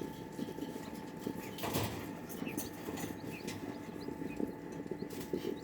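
Day-old-type chicks (Serama and silkie) pecking and moving about in their brooder box: many small irregular ticks and taps, a brief louder rustle about two seconds in, over a steady faint hum.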